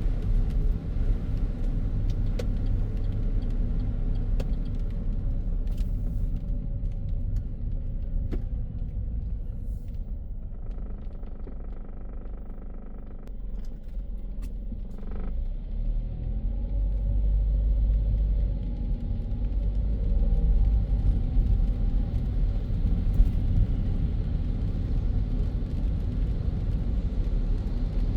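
A car driving on a city road, with a steady low rumble of tyres and engine. The rumble eases slightly midway and builds again, with a few light clicks scattered through it.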